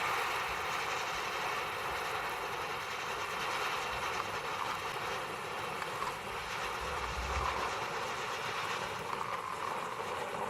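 Ground spinner firework spinning and spraying sparks and flames: a steady hissing rush that slowly fades.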